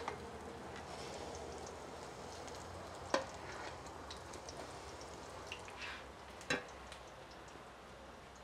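Battered chiles rellenos frying in hot oil in an enamel pan: a steady sizzle with fine crackling. A metal spatula clicks sharply against the pan twice as the chiles are turned, about three seconds in and again past six seconds.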